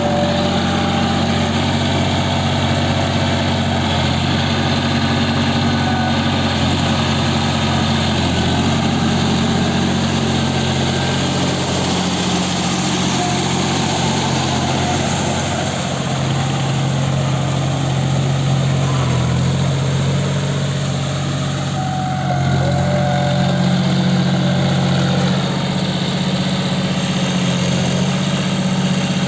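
John Deere 5050D tractor's three-cylinder diesel engine running steadily. It gets a little louder about three-quarters of the way through.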